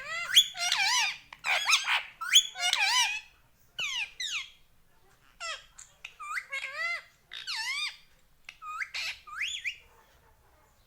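Indian ringneck parakeet calling: a fast run of short, high-pitched calls that swoop up and down in pitch, crowded together at first, then coming in spaced groups until about a second before the end.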